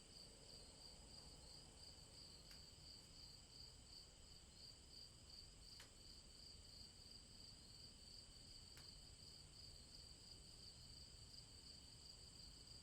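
Near silence, with a faint, steady high-pitched insect trill.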